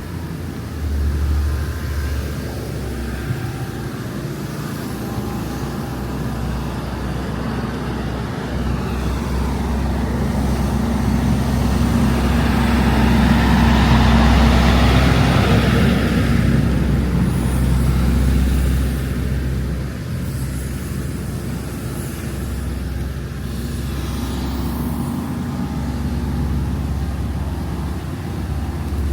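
Road traffic: a motor vehicle passes close by. Its engine and tyre noise build to a peak about halfway through and fade away over a steady low rumble.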